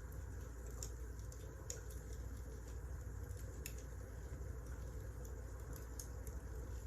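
Wood burning in a fireplace: a steady low rumble with scattered sharp crackles and pops, a handful of them louder.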